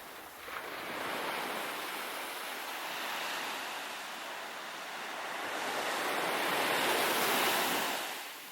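Surf on a beach: waves breaking and washing up the shore, the rush swelling over several seconds and falling away sharply near the end.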